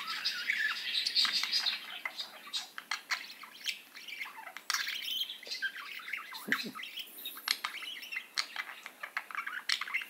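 Budgerigars chirping and warbling: a dense run of short high chirps and clicks, thickest in the first two seconds.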